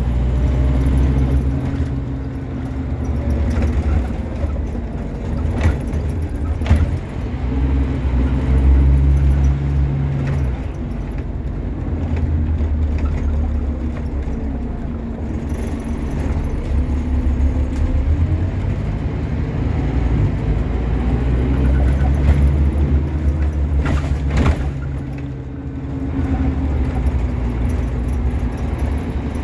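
Scania N230UB OmniCity bus's five-cylinder diesel engine heard from on board, loud, its note rising and falling several times as the bus pulls away and changes gear. A few sharp knocks or rattles from the bus body come through.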